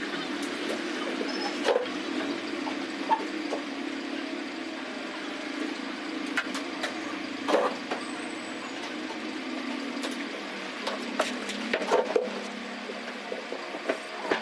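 Table fan's electric motor running steadily with a low hum, with scattered sharp clicks and knocks throughout.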